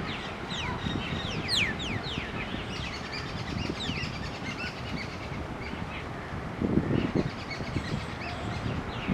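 Small birds chirping: a quick run of short, downward-sliding chirps over the first two seconds or so, then scattered, fainter chirps. A low muffled rumble comes about seven seconds in.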